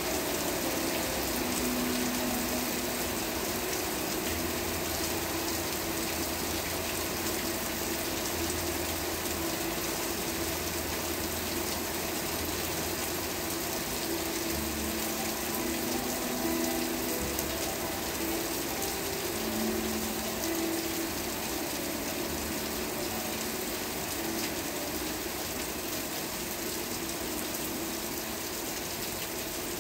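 Steady rain falling: an even, continuous hiss of water, with faint low tones that come and go underneath.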